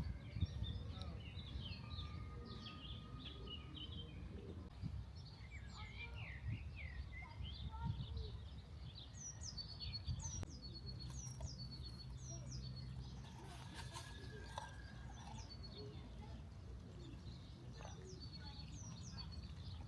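Songbirds chirping and singing over a low steady rumble of background noise. In the second half one bird repeats a short phrase about once a second: a falling whistle ending in a quick trill.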